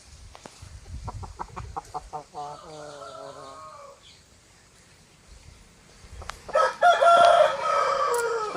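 Chickens calling: hens clucking in short notes, then a longer drawn-out call, and near the end a rooster crowing loudly for about two seconds, the loudest sound.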